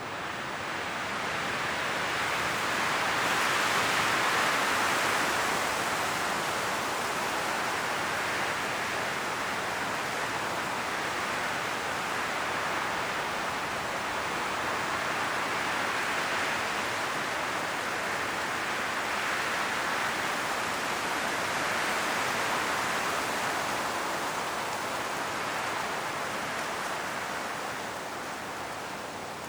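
High wind blowing through a forest's autumn leaves: a steady rushing rustle that swells and eases in slow gusts, strongest a few seconds in and dying down near the end.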